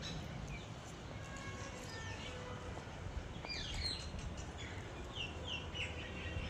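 Small birds chirping: a few short, quick downward-sliding chirps, mostly in the second half, over a steady low rumble.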